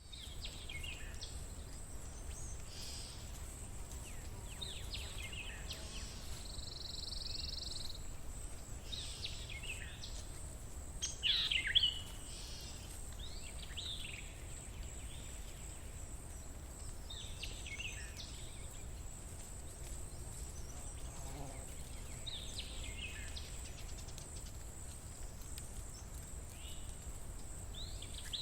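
Wild birds chirping and singing at intervals, short calls every second or two with a louder cluster about eleven seconds in, over a steady low rumble of outdoor background noise.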